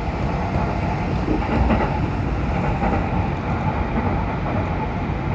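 Steady running noise of a Hanshin Railway electric train, heard from inside the carriage: a low rumble of wheels on track with a faint steady whine.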